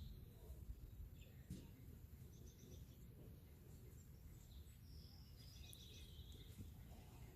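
Faint birdsong: a few short chirps and quick trills, two of them close together about two and a half and six seconds in, over a low rumble of breeze, with one soft click about a second and a half in.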